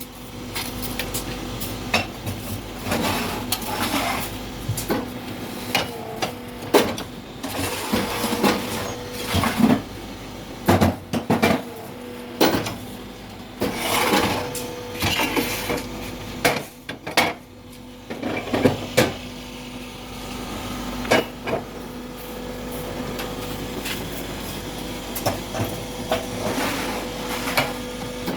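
Concrete block-making machine at work: a steady motor hum with irregular metal clanks and knocks throughout.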